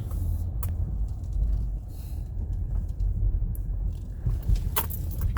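Low, steady rumble of a car heard from inside the cabin as it moves slowly, with a few light clicks, one shortly after the start and two near the end.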